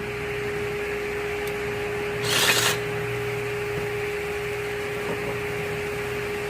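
Steady machine hum, like a shop fan running, with a constant tone under it. A little over two seconds in comes one short, loud, hissy burst of noise from work on the engine.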